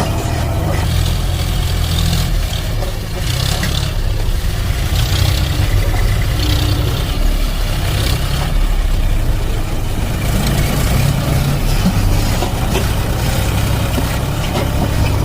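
Tractor engine running steadily, low-pitched and even, with no breaks.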